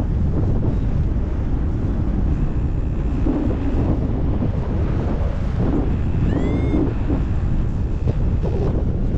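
Wind buffeting the camera microphone of a paraglider in flight: a loud, gusty low rumble. A brief high chirp sounds about six and a half seconds in.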